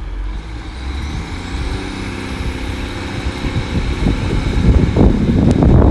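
Double Class 150 Sprinter diesel multiple unit with its underfloor diesel engines running under power, a whine rising in pitch over the first few seconds. A heavier rumble with rattling strokes grows louder near the end.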